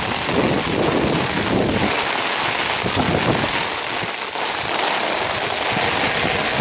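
Heavy hurricane rain falling steadily as a dense hiss. Wind gusts buffet the microphone with a low rumble during the first couple of seconds.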